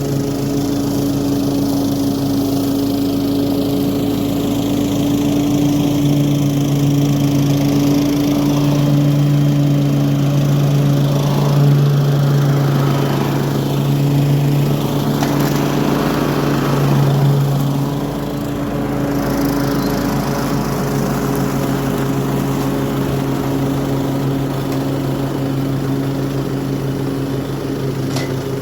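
Toro HDX 30-inch self-propelled walk-behind mower running steadily while mowing grass, with its mulching kit fitted. The engine hum grows louder for a stretch through the middle, then eases back.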